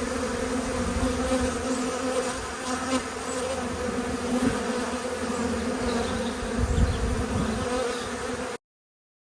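Honeybees buzzing around their hive in a steady hum, many bees in the air on orientation flights after the hive has been moved. The sound cuts off suddenly near the end.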